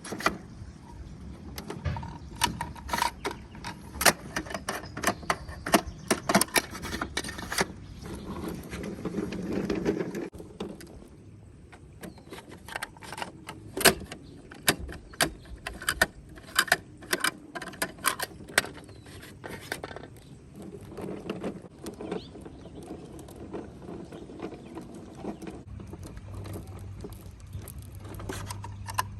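Plastic toy trucks being handled and rolled, giving an irregular run of clicks, rattles and clatters of toy parts knocking together.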